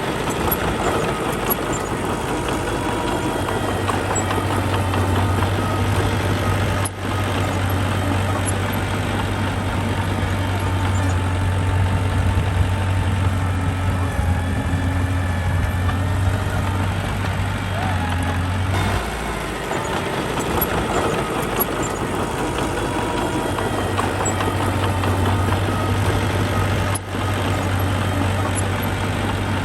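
Heavy construction machine's diesel engine running steadily with a deep low hum. The hum drops away for a moment about nineteen seconds in, then returns.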